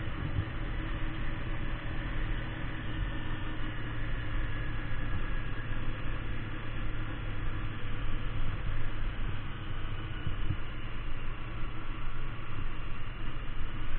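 Kawasaki Ninja 250 motorcycle engine running steadily under way, with an unsteady low rumble over it.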